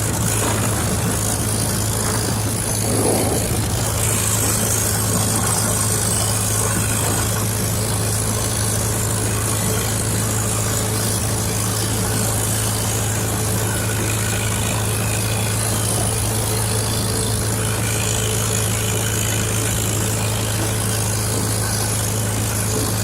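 1951 Farmall H tractor's four-cylinder engine running steadily under load in fifth gear, at full throttle up a hill.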